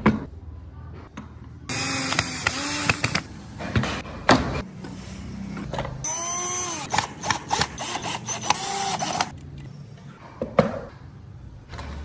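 Small handheld power tool working wood, run in two bursts, the second about three seconds long. Its pitch dips and recovers as it bites, with a few knocks in between.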